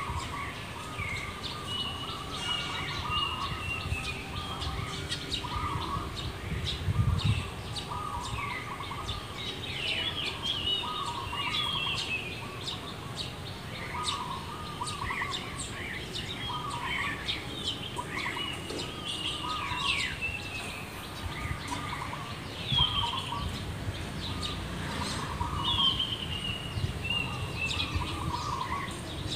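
Several birds calling and chirping together: a short warbling phrase repeated every second or two, over scattered higher chirps and falling whistles. A brief low bump about seven seconds in.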